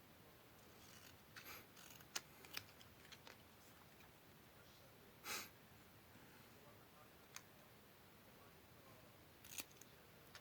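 Faint, scattered snips and rustles of scissors and paper being worked by hand: a dozen or so short sharp clicks, with one longer rustle about five seconds in.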